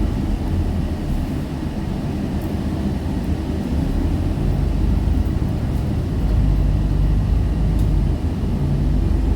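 Scania K320UB bus's five-cylinder diesel engine running, a steady low drone that grows louder about six seconds in as it pulls harder.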